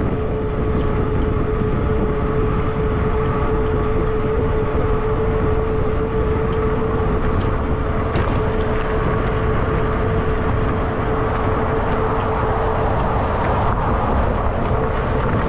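Fat-tire e-bike riding at a steady road speed: a constant whine from the drive and tyres over a heavy low rumble of wind and road noise.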